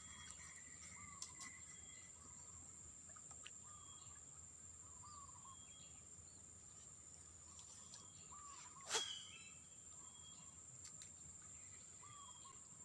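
Faint outdoor ambience: a steady high-pitched insect drone, with a bird giving short repeated chirping calls every second or two. One sharp knock about nine seconds in.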